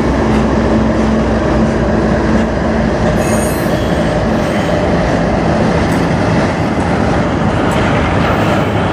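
Freight cars of a manifest train (a lumber-loaded centerbeam flatcar, then autoracks) rolling past close by. The wheels make a loud, steady roar on the rails. A hum from the departing locomotives dies away about two seconds in, and there are a few short high squeaks from the wheels.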